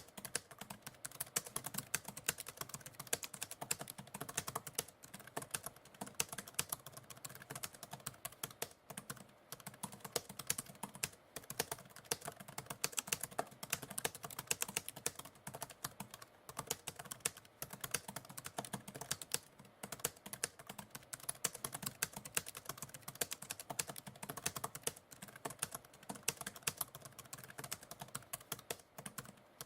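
Continuous typing on a computer keyboard: a dense, irregular patter of key clicks with short pauses here and there.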